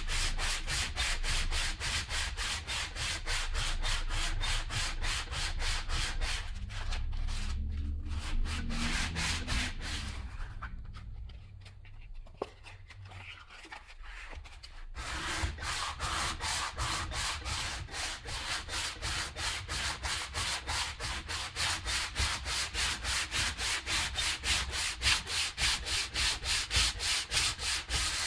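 Hand sanding, sandpaper rubbed back and forth in quick, even strokes, several a second, to strip old paint and finish. The strokes thin out and go quiet for a few seconds about ten seconds in, then start again at the same pace.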